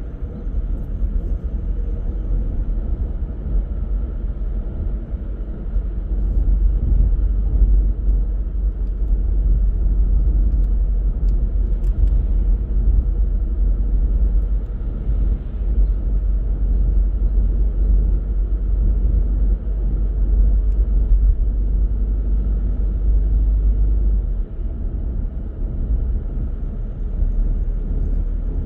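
Car driving along a road: a steady low rumble of road and engine noise, a little louder from about six seconds in and easing off near the end.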